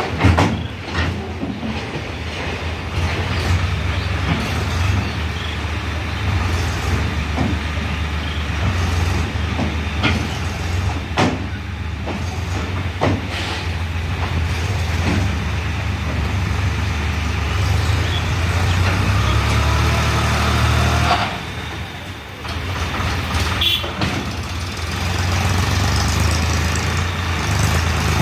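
Tractor diesel engine running steadily, with a few sharp knocks and clanks over it. The engine sound drops briefly about three quarters of the way through, then picks up again.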